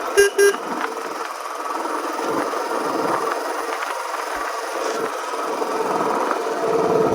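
Two short horn beeps in quick succession just after the start, followed by a steady rasping noise with no clear engine beat.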